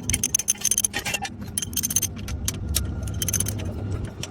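Irregular metallic clinking and jingling of hand tools and small metal parts being handled during car repair work, over a steady low rumble.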